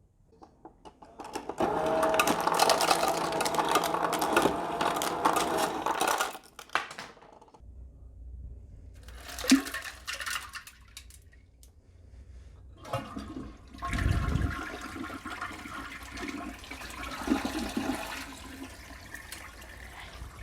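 Toilet flushing: a loud rush of water for about five seconds, then quieter running and gurgling water as the bowl and tank refill.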